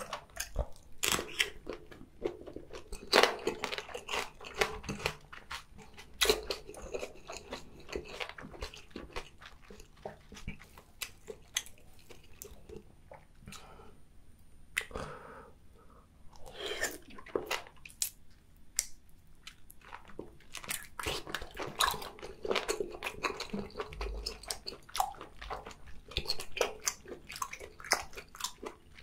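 Close-miked eating: crisp crunching bites of a raw red chili pepper and chewing of octopus tentacle, an irregular run of crunches and chewing noises with a few louder bites.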